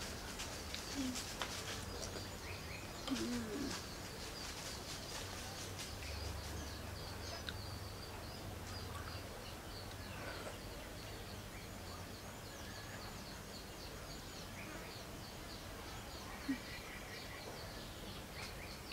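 Small birds chirping over and over, faint, over a low steady background hum.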